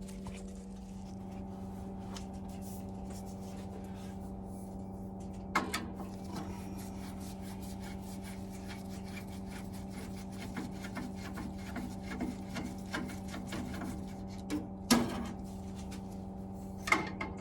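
Hand-tool work on a gas boiler's burner assembly: small metallic ticks, scrapes and rubbing as screws are undone, with a few sharper clicks. A steady low hum runs underneath.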